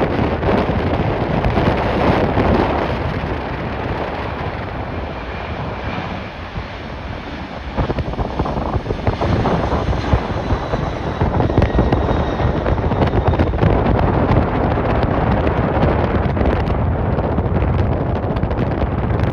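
Strong wind buffeting the microphone, with a jet airliner's engines running under it, growing louder from about eight seconds in with a faint high whine.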